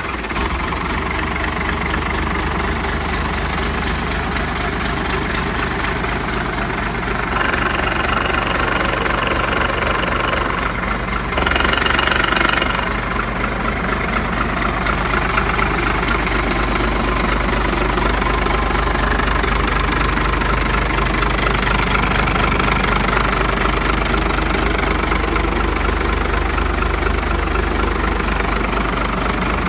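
Yamaha 450-horsepower V8 outboard motor idling steadily, freshly started, with a brief rise in level and a higher tone about eleven to thirteen seconds in.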